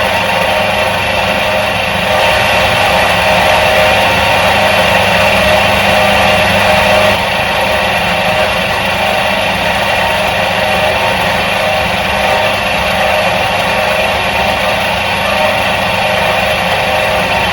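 Electric motor of a 1977 Soviet washing machine running steadily, a continuous hum with a whirring noise over it. It grows slightly louder from about two seconds in and eases back at about seven seconds.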